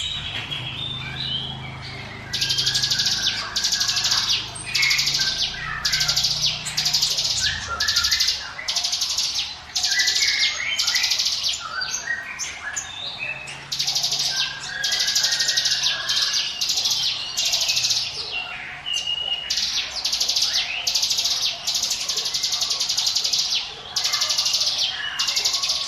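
Ciblek gunung, a prinia, calling in short, high, buzzy 'ngiwit wit' phrases, repeated about once a second.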